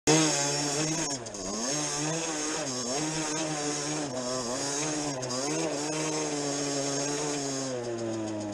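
50cc two-stroke enduro motorcycle engine running under way, its pitch dipping and climbing several times as the throttle is worked, then easing off and falling near the end.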